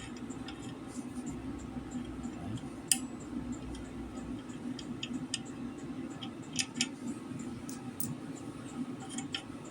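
Scattered light metallic clicks and clinks of small metal parts, a wheel bearing among them, being handled, over a steady low hum.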